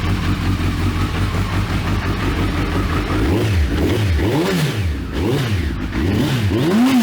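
Suzuki Hayabusa's inline-four engine idling, then blipped about four times from around three seconds in, the revs rising and falling with each blip, the last one highest.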